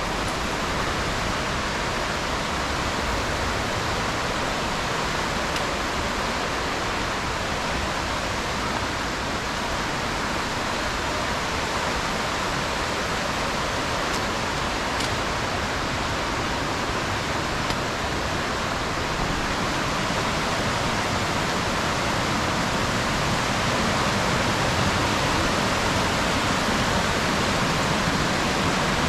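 Steady rush of flowing water from a creek and waterfall, an even hiss-like roar with no breaks, growing slightly louder toward the end.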